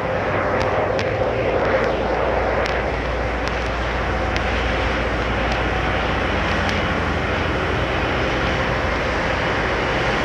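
D&S Quicksilver in-bay automatic car wash running, a steady rushing noise with a constant hum beneath it.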